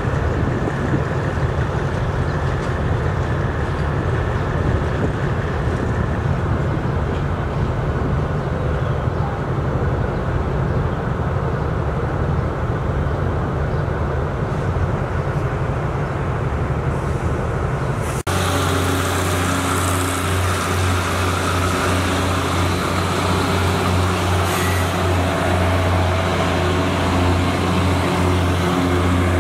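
Diesel locomotive engine running as it moves slowly through a railway yard, a steady deep rumble. About two-thirds through it cuts abruptly to a passenger train passing close by, a steady low engine drone with the hiss and rumble of wheels on rails.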